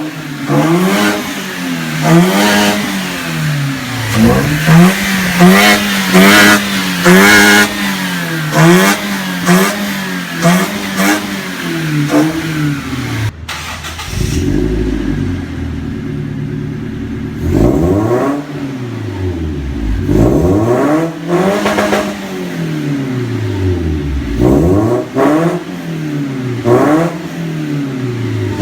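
Toyota Innova engine fitted with a modified intake and exhaust, revved repeatedly from idle. For the first dozen seconds it blips quickly, about once a second. After a brief break near the middle it gives fewer, longer revs that rise and fall in pitch.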